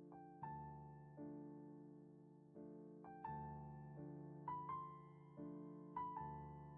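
Slow, quiet piano music: soft chords with single higher notes struck every second or so, each one fading away.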